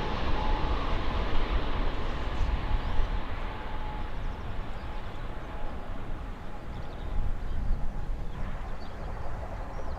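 Jet airliner's engine noise fading as it moves away, a broad rumble with a faint steady whine that dies out about halfway through.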